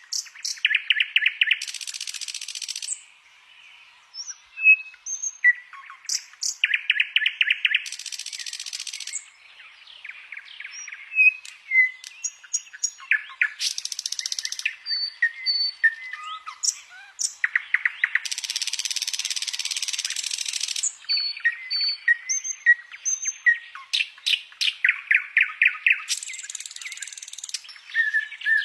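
Songbird singing in repeated phrases: a run of rapid ringing notes, then a long buzzy, hissing high trill lasting two to three seconds. The phrases come about every six seconds, with short scattered chirps and whistles between them.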